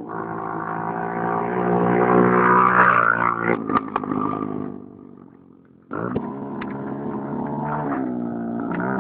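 Honda XL185 four-stroke single-cylinder motorcycle engine revving up, then fading away over about two seconds; about six seconds in it is suddenly back, running steadily with the revs wavering.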